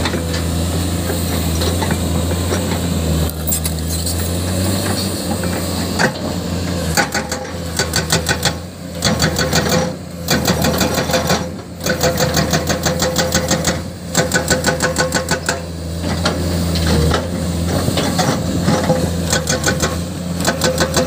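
Diesel excavator engine running steadily. About six seconds in, a hydraulic breaker starts hammering rock in rapid, even strikes, in runs of a second or two with short pauses between them.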